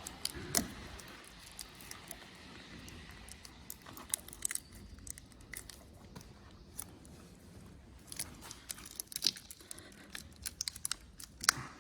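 A blade cutting and prising a glued-on rubber handlebar grip off the bar: irregular scraping, tearing and clicking, sharpest just after the start, about nine seconds in and near the end.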